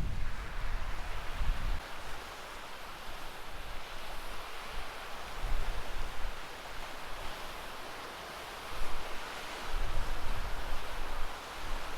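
Wind gusting on the microphone in low rumbling buffets, near the start, about halfway and again near the end, over a steady wash of sea surf.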